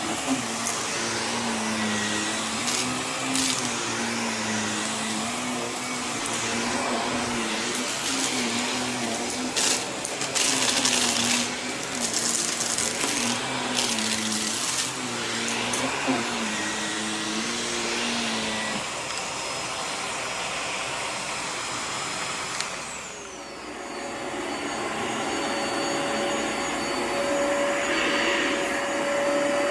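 Vacuum cleaner running over a rug, its motor pitch wavering up and down with the back-and-forth strokes, with scattered sharp clicks. About 23 seconds in the sound dips, and a steadier, higher-pitched machine hum takes over.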